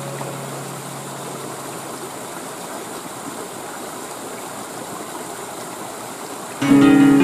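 Steady rush of falling water from a waterfall. Acoustic guitar music cuts in near the end and is the loudest sound.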